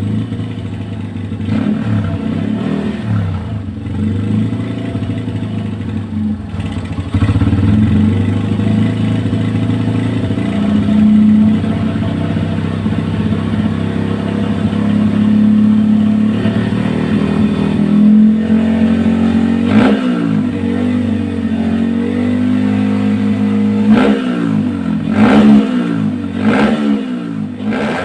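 Motorcycle with an open racing exhaust running at a loud, lumpy idle, held at a slightly higher speed from about a quarter of the way in, then revved in several short, sharp throttle blips near the end.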